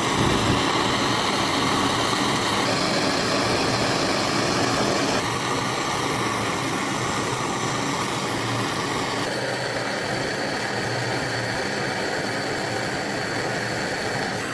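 A motor-driven workshop tool running steadily with a dense, even noise, its tone changing abruptly about three, five and nine seconds in.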